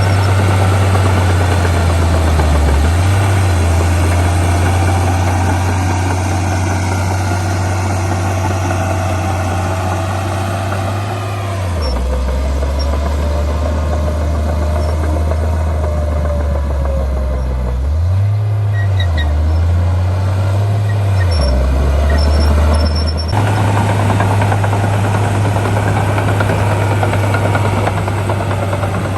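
Heavy diesel engines of earth-moving machines, a bulldozer and dump trucks, running continuously under load. The engine note drops about a third of the way through, rises and falls a couple of times, then changes suddenly past the two-thirds mark.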